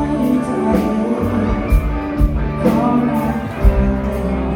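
Live band playing a rock-style song through the bar's sound system, with singing and a drum beat.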